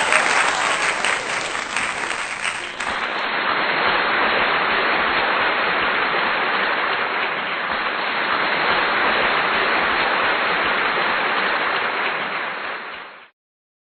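Applause: dense clapping that runs on until it cuts off abruptly shortly before the end, with a sudden change to a duller sound about three seconds in.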